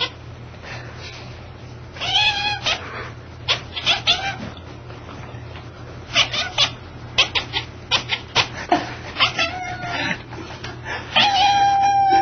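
A domestic cat making bark-like calls: short, clipped cries in a string of separate bouts, with a longer held call near the end.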